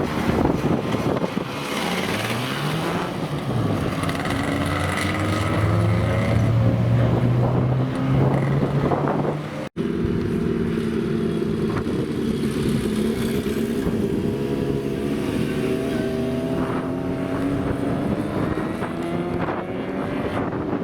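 Old motorcycle engines revving and running, their pitch rising and falling. An abrupt cut comes about ten seconds in, after which engine notes climb slowly as they accelerate.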